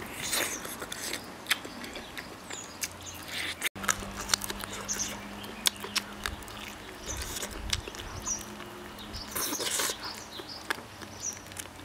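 Close mouth sounds of gnawing and chewing meat off a stewed pig's trotter held in the hands: wet smacking and many small clicks.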